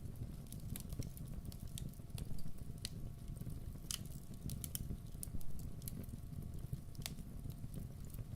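Campfire burning with a steady low rumble and irregular sharp crackles and pops of the burning wood, a few louder pops about four and seven seconds in.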